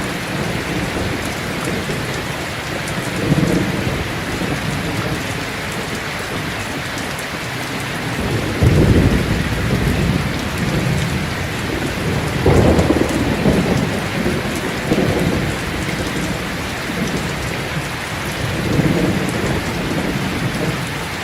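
Steady heavy rain with rolls of thunder. The two loudest rumbles come about halfway through, a few seconds apart, with fainter ones before and after.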